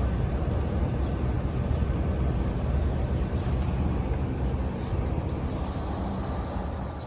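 Goodman packaged rooftop air-conditioning unit running: a steady rush of condenser-fan air over a low compressor hum, growing quieter near the end.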